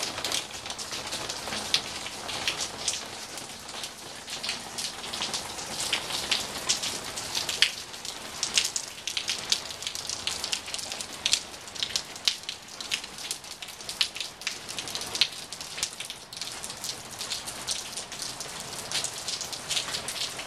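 Steady rain falling on a backyard patio and pool, with many sharp individual drops striking surfaces close by.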